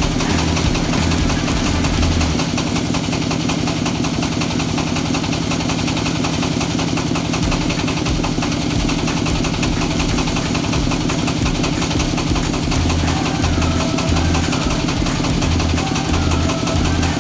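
Diesel engine of a mini self-loading concrete mixer running steadily, with a low throbbing pulse that comes and goes near the start and over the last few seconds.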